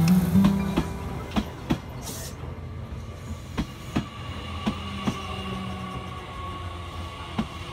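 JR Kyushu 885 series electric limited-express train rolling slowly past, its wheels clicking in pairs over the rail joints as each bogie passes, over a steady rumble and a faint steady whine.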